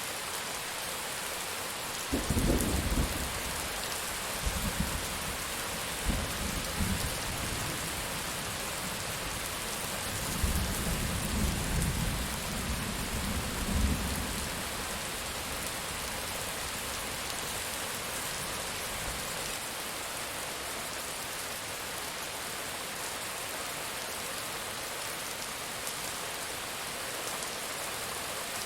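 Steady heavy rain with thunder rumbling low in the first half, in several rolls from about two seconds in until about fourteen seconds; then rain alone.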